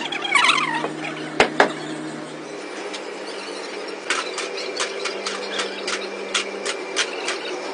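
Workshop machinery running with a steady hum. A brief squeal comes at the start, two sharp knocks follow about a second and a half in, and from about four seconds in there is a run of regular clicks, about three a second.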